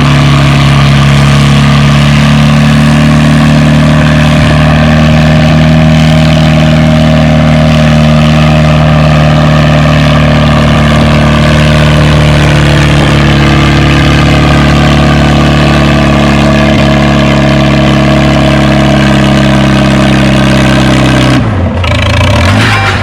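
Farmall 350 tractor engine running steadily under heavy load as it pulls the sled down the track. The engine note drops sharply near the end as the pull finishes.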